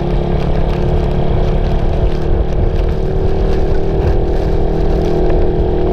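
Suzuki Raider 150 motorcycle's single-cylinder four-stroke engine running steadily under way, its pitch creeping up slightly about two-thirds through, over a dense rushing noise.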